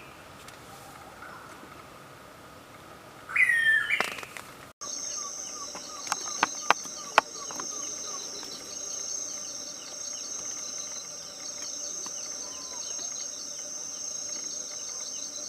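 A bird calls with a loud, falling squawk about three and a half seconds in. After an abrupt cut, a steady high insect drone takes over, with small repeated bird chirps and a few sharp clicks.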